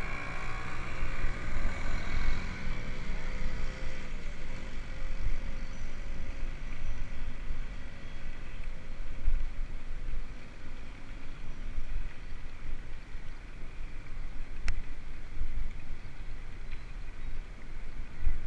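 Wind rumbling and buffeting on the microphone while riding a mountain bike, low and gusty. A faint whine fades out in the first few seconds, and there is a single sharp click near the end.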